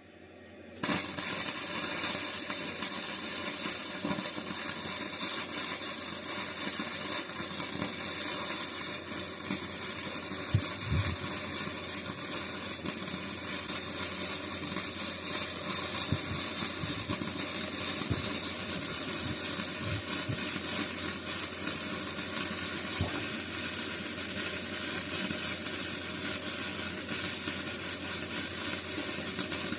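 MIG welder running a solid-wire weave bead on steel plate: the arc's steady sizzle starts about a second in and carries on unbroken.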